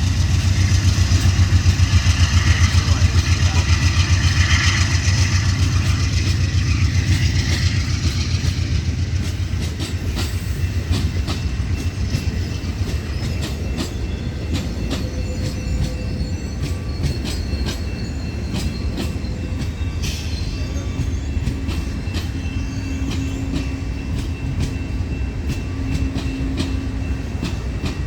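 A train passing close by. It is loudest for the first several seconds, then settles into a steady rolling sound with many clicks of wheels over rail joints.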